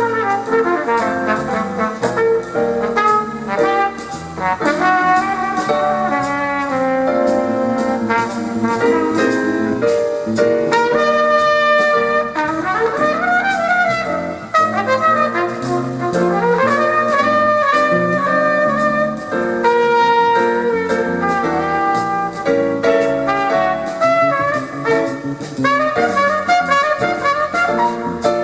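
Small jazz band playing live: a flugelhorn takes a melodic solo with bends and slides, over piano, bass and drums with steady cymbal strokes.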